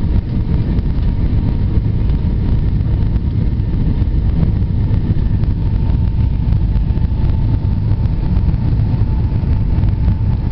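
Airbus A320 cabin noise: a steady, loud low rumble of engines and airflow with a faint steady whine above it.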